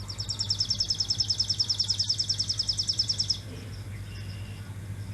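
Sparrow singing a fast, even trill of high chirps, about ten a second, lasting about three seconds before stopping. A low steady hum runs underneath.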